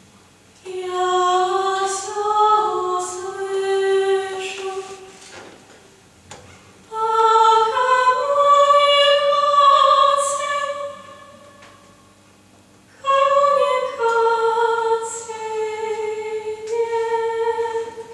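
Unaccompanied female singing: three long held phrases, each followed by a short pause.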